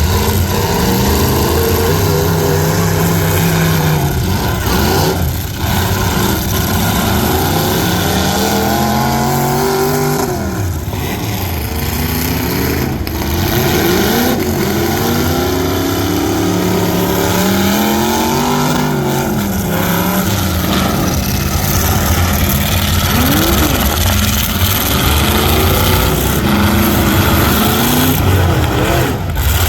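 Several truck engines running at once, revving hard over one another, their pitch climbing and falling again and again.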